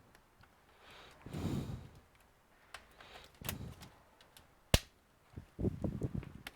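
Handling noises from laptop disassembly: several short bouts of rubbing and shuffling of the laptop and tools, with one sharp click a little past the middle.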